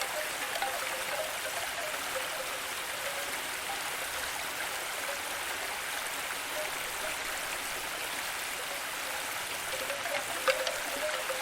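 Steady water ambience: an even hiss of running water with small scattered drip-like flickers, and one sharper tick near the end.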